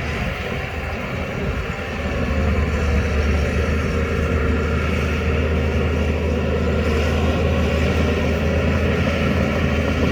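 Shantui DH17 C2 crawler bulldozer's diesel engine running steadily under load with a deep, steady hum. It gets louder about two seconds in.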